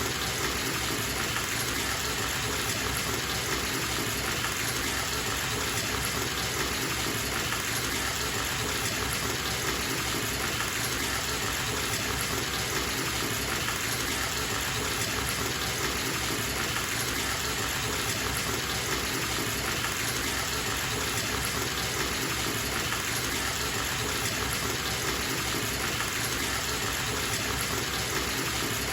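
Bathtub tap running, a steady gush of water pouring into the tub as it fills.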